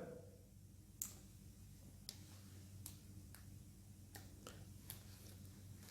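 Near silence with faint clicks: one sharp click about a second in, then several fainter ticks, from the small soundbar's power button being pressed and held and the unit being handled. A faint steady low hum lies underneath.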